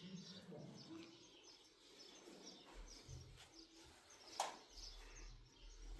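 Faint birds chirping, with one sharp click about four and a half seconds in.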